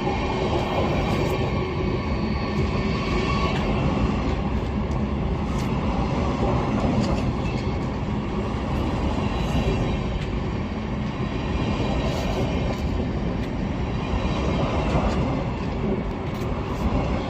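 Siemens Desiro HC electric multiple unit (class 3462) moving through the station: a steady rumble of wheels and running gear with faint steady whining tones, carrying on without letup.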